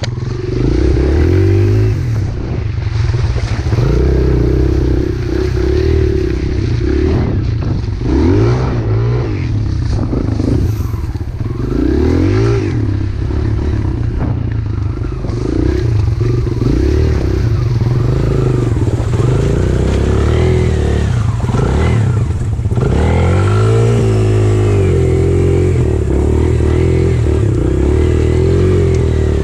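Pit bike engine revving up and down repeatedly, its pitch rising and falling over and over.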